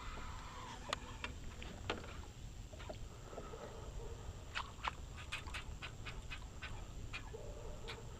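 Fishing reel clicking faintly while a large hooked fish is fought. The clicks come about once a second at first, then quicken to roughly three a second about halfway through.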